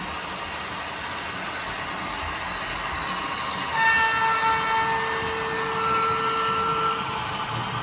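A train running with a steady rumble; about halfway through its horn sounds for roughly three seconds, changing to a different chord partway through.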